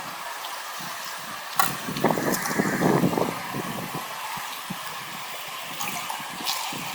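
Water splashing and pouring during cleanup of a sluice box, loudest about two to three seconds in, with a sharp knock just before and a few lighter knocks later, over a faint steady hum.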